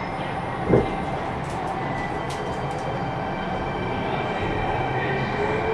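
Kintetsu rapid express train running, heard from inside the passenger car: a steady rumble with a single thump about a second in, and a rising whine near the end.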